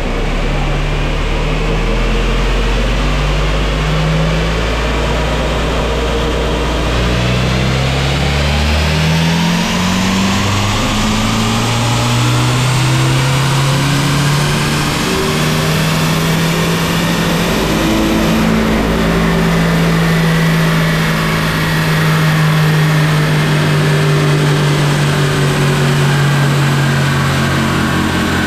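Volvo B230FK 2.3-litre turbocharged four-cylinder doing a full-throttle pull on a chassis dyno, its boost control opened up with a T-piece. The engine note climbs steadily in pitch for about 18 seconds, then holds at high revs.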